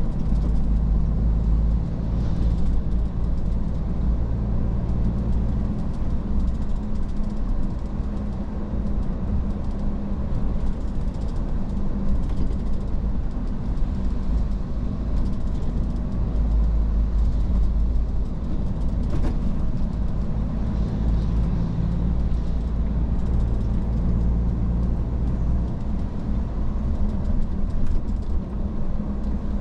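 Iveco S-Way truck driving along: a steady low engine drone with road and tyre noise.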